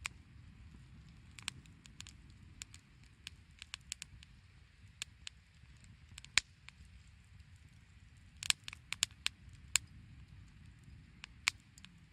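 Firewood burning and crackling, with irregular sharp pops, a quick run of them about two thirds of the way through, over a low steady rumble.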